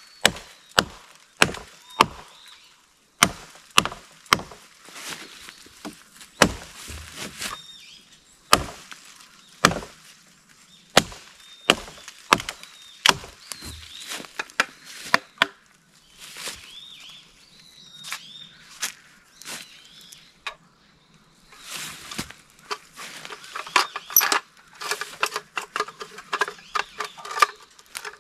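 Japanese nata hatchet chopping and trimming wood: a steady series of sharp blade strikes into the wood, growing faster and closer together near the end.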